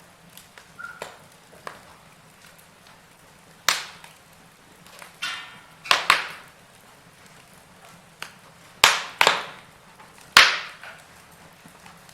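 Log fire in a fireplace crackling: irregular sharp pops and snaps over a faint low background, with the loudest pops about four seconds in, twice around six seconds, twice around nine seconds, and once just past ten seconds.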